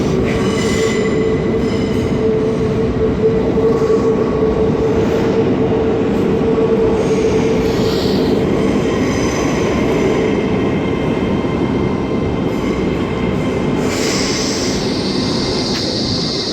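TransPennine Express train pulling out close by, a loud, steady drone with a constant hum. About fourteen seconds in, a high-pitched wheel squeal joins it.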